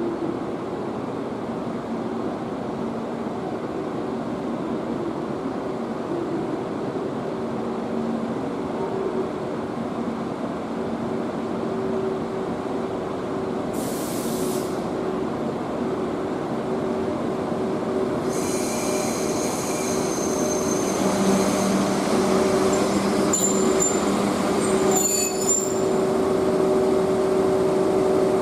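EF81 electric locomotive hauling a container freight train slowly alongside a station platform: a steady rumble and hum that grows louder as it nears, and a short hiss about halfway. In the last ten seconds high wheel and brake squeal sets in as the train draws to a stop.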